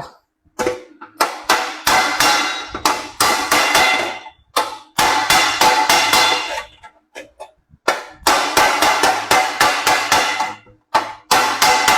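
Hammer blows on metal in quick runs of about three to four strikes a second, each with a metallic ring, with short pauses between the runs: a loose handle being driven tight.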